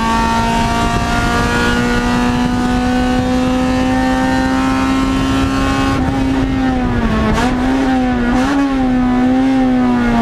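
Race car's engine heard from inside its stripped cabin, held at high revs with its pitch climbing slowly. About six seconds in, the note changes, and the revs dip and pick up again twice as the car goes into a bend.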